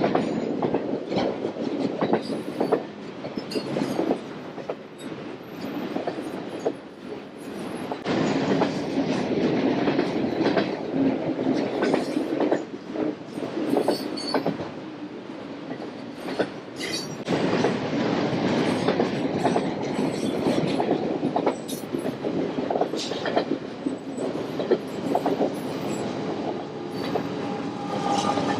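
Freight trains rolling past: a continuous rumble of railcars and diesel locomotives, with frequent sharp clicks of wheels passing over rail joints.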